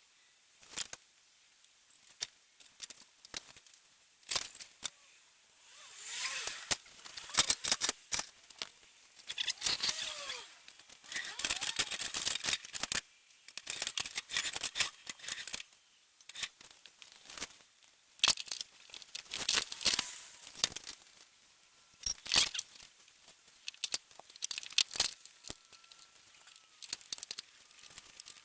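Hand work on metal parts: irregular clicks and knocks, with several longer scraping stretches in the first half.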